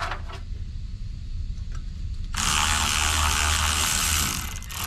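A power tool runs for about two seconds, starting a little past two seconds in, loosening a bolt to open up an air dryer; a few faint clicks come before it.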